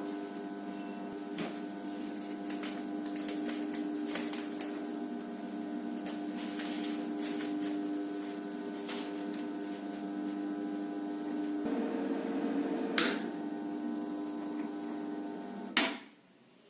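FR900 continuous band sealer running with a steady motor hum and scattered light clicks. Near the end there is a sharp click and the hum cuts off abruptly.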